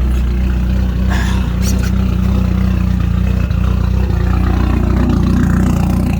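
Drift car's engine running steadily while the raised car is in gear; the half shafts turn but the wheels stay still, because both axles are broken.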